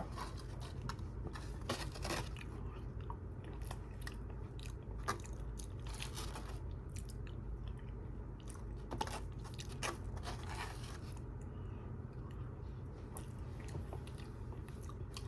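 Close-miked eating: scattered crunchy bites and chewing, most likely of a fried chicken chunk's crisp breading.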